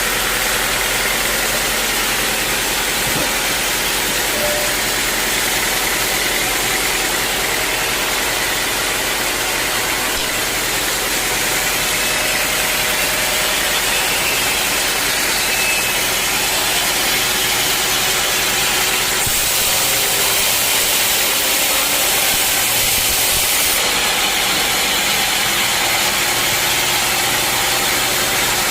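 Sawmill machinery running steadily with a constant, even noise, shifting slightly in tone for a few seconds past the middle.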